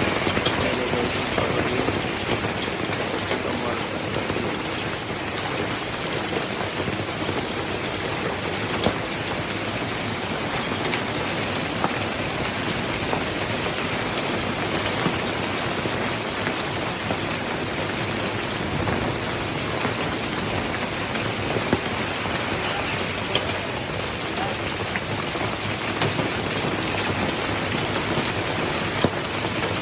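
Heavy rain falling steadily, a dense even hiss of drops with many small sharp patters on hard surfaces.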